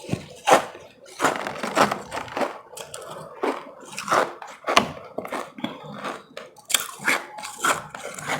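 Ice being bitten and chewed close to the microphone: irregular crisp crunches, about one or two a second.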